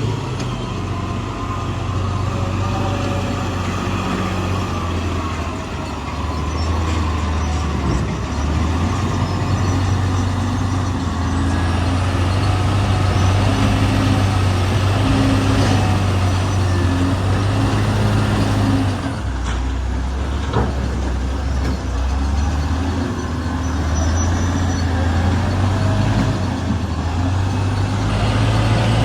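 Heavy diesel machinery engine running, its speed rising and falling, with one brief knock about twenty seconds in.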